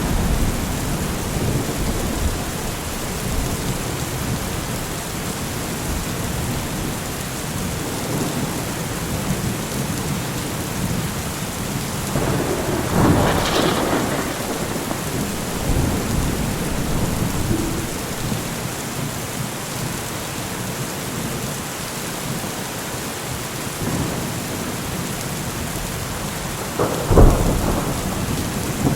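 Thunderstorm: steady heavy rain with rolling thunder. A long rumble swells about halfway through, and a sharp thunderclap cracks near the end.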